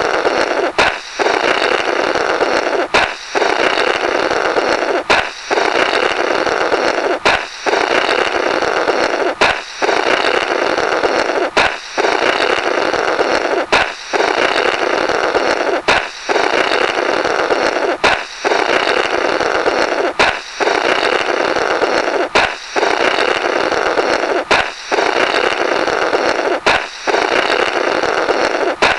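A balloon pops and is followed by a long, raspy, fluttering 'blorrrt' of air blown through the burst rubber. The effect repeats about every two seconds, roughly thirteen times, each time beginning with a sharp pop.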